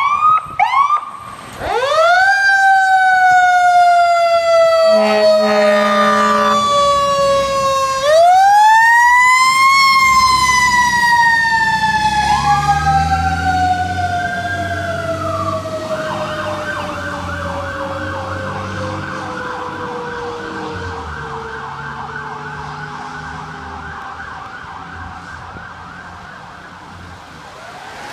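Fire engine's siren on an emergency response: a few short whoops, then a wail that rises and slowly falls, rises again about eight seconds in and winds slowly down over the next fifteen seconds. There is a steady horn blast about five seconds in, a second, rapid warbling siren from about sixteen seconds on, and the truck's engine running underneath.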